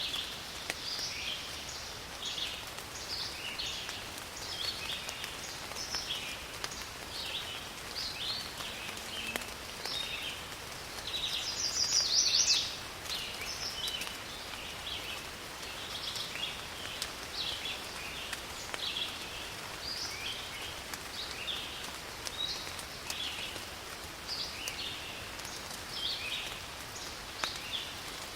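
Steady rain falling in a forest, with frequent short, high bird chirps throughout and one louder call near the middle.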